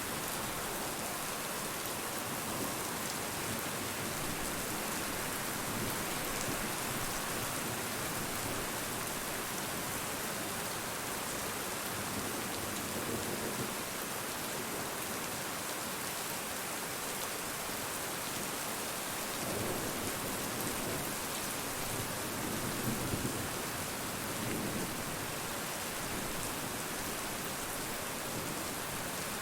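Steady rain falling, an even hiss of drops, with a few low rumbles of thunder in the second half.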